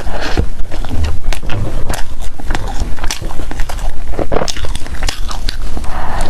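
Close-miked eating: biting into and chewing food, with many small, sharp crackles and wet mouth clicks following one another irregularly.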